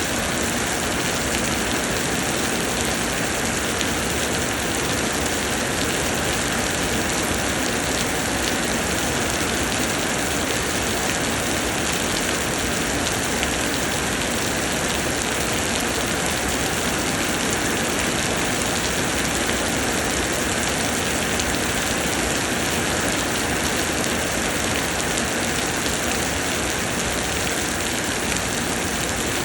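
Steady heavy summer rain falling on a green vegetable plot, an even hiss of drops with no change in strength.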